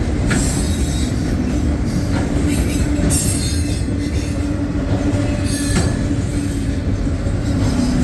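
Loaded autorack freight cars rolling past on jointed track: a steady rumble of steel wheels on rail with a steady whining tone running through it, and a few sharp clacks as wheels cross rail joints.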